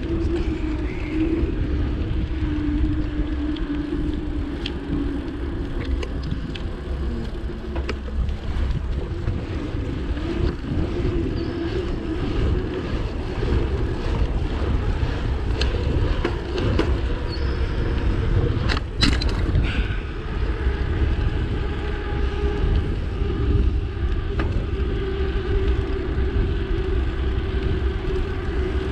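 Wind buffeting the microphone and bicycle tyres rolling on pavement, a steady low rumble, with a sharp click about 19 seconds in.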